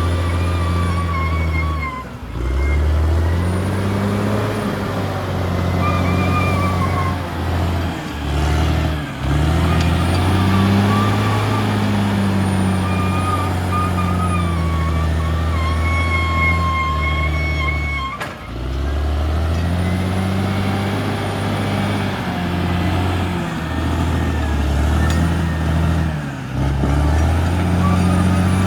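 Caterpillar D6R XL bulldozer working, its diesel engine running hard with the note dropping and picking back up about four times as the load changes. A high, wavering squeal comes and goes over it.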